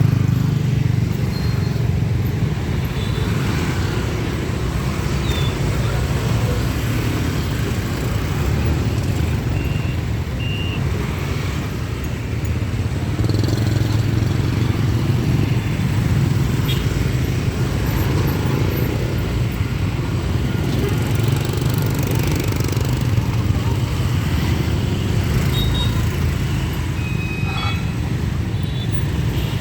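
Motorbike and road traffic engines running at a city level crossing, a steady low rumble with a few short high beeps or horn notes scattered through.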